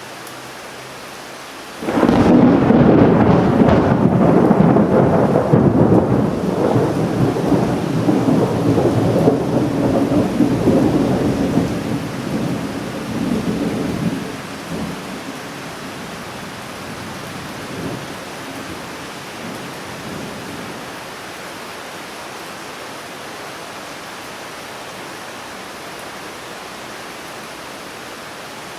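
Steady rain hiss with a sudden thunderclap about two seconds in that rumbles on for some ten seconds before fading, followed by a couple of faint distant rumbles.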